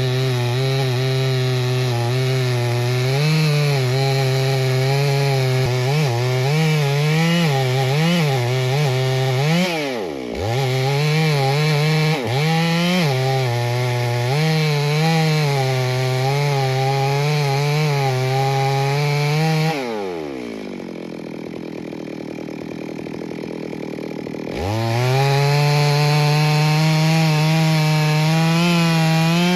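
Two-stroke chainsaw cutting into a mahogany tree at full throttle, its engine pitch wavering and dipping as the chain loads in the wood. About twenty seconds in the engine drops to idle for four seconds, then revs back up to a steady high pitch.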